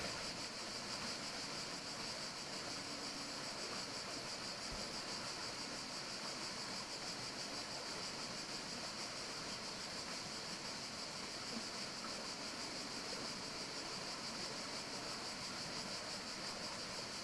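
Steady forest ambience: an even hiss with a constant high-pitched band above it, unchanging throughout.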